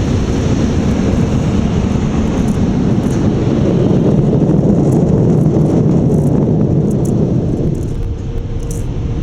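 Automatic car wash air dryers blowing on the truck, a steady loud rush of air heard from inside the cab, easing off a little near the end.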